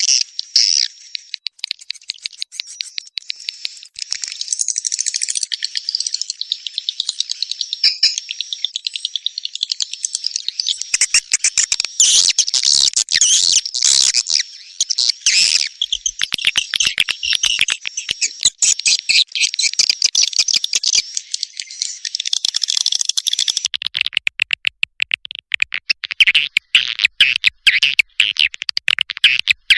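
Swiftlet call (lure) sound: dense, high-pitched chirping and twittering of swiftlets, made to draw swiftlets into a swiftlet house. It grows busier a few seconds in and turns to rapid clicking chirps near the end.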